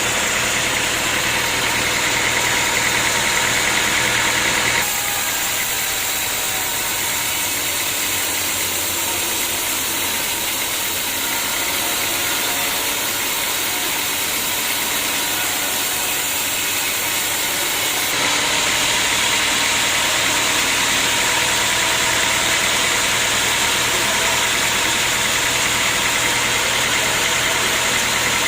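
Sawmill machinery running steadily, an engine-like drone throughout. Its tone changes abruptly about five seconds in, losing its low hum, and switches back around eighteen seconds.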